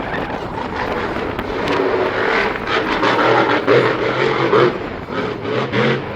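A loud vehicle engine running, with a steady pitched drone coming in about two seconds in.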